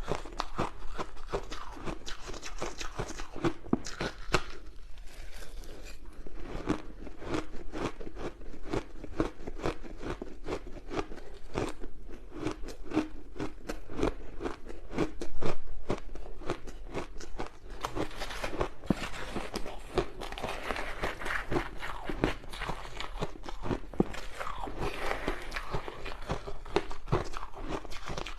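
Ice being bitten and crunched in the mouth: a continuous run of rapid crackling crunches, with one louder bite about halfway through.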